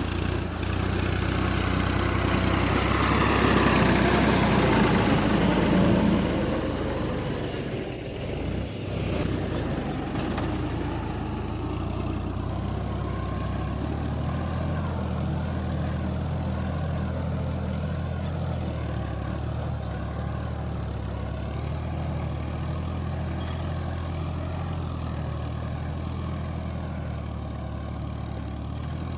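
Al-Ghazi tractor's diesel engine running steadily, louder for the first few seconds with a falling pitch, then settling to an even, lower note.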